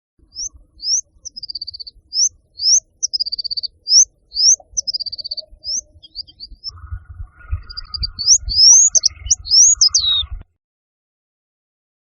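A songbird singing a series of high rising notes, about two a second, with short falling trills between them. It ends in a quicker, louder run of notes and stops abruptly about ten seconds in.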